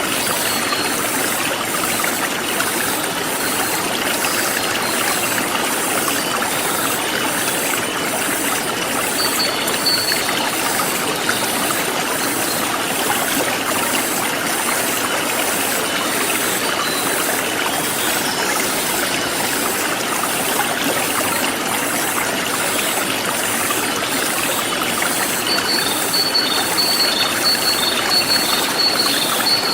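Forest stream flowing steadily with a constant rushing of water. Over it, a high insect chirping pulses about twice a second, and short high chirping trills come in about nine seconds in and again near the end.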